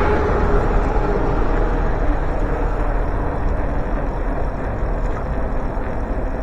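Steady wind and road noise on the microphone of a moving bicycle, with a passing motor vehicle fading away at the start.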